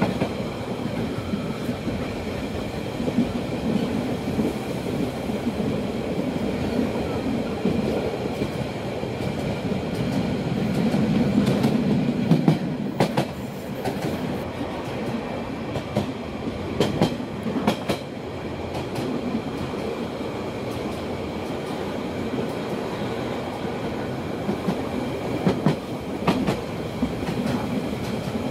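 A Rhaetian Railway train running along the track, heard from an open carriage: a steady rumble of wheels on rail with a faint steady high whine. Sharp clickety-clack clicks from the rail joints come thickest around the middle and again near the end.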